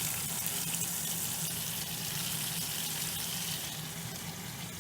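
Water pouring steadily into a Whirlpool Estate washing machine's tub during the fill stage, a continuous hiss of running water with a low hum beneath it.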